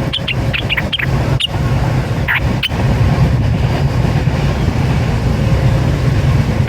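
Short, high bird chirps, several in the first three seconds and fewer after, over a steady low rumble that is the loudest sound throughout.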